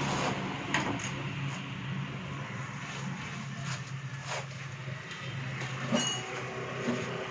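Steady low mechanical hum with a few light clicks and knocks.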